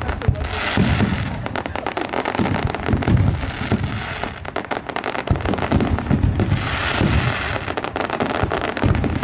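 Many fireworks and firecrackers going off at once from all around: a dense, continuous barrage of overlapping bangs and crackling with no pause.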